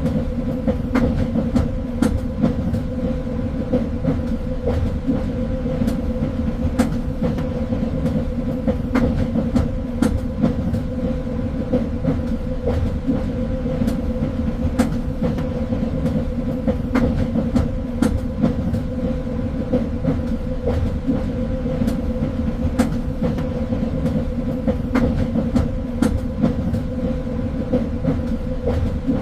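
A train running along the track: a steady low rumble with a constant hum, broken by frequent sharp, irregular clicks and knocks from the wheels over the rails.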